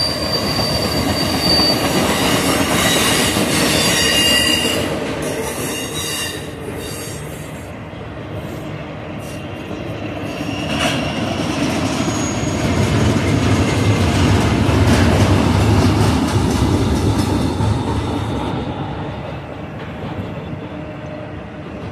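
Intermodal stack train cars rolling past: a steady rumble of steel wheels on rail, with high-pitched wheel squeal in the first few seconds. The rumble swells again about two-thirds of the way through.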